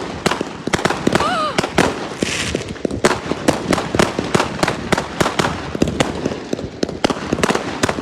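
Fireworks going off in a rapid, irregular barrage of sharp bangs and crackles, several a second, with a short wavering tone about a second in.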